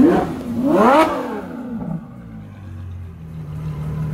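Ferrari F12 Berlinetta's V12 engine revved twice in quick succession, the pitch shooting up and falling back, then settling to a steady low idle.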